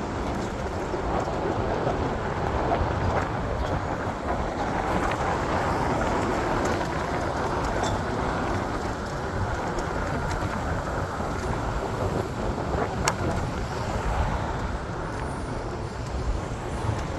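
Steady vehicle and road-traffic noise, a continuous rumble with a few faint clicks.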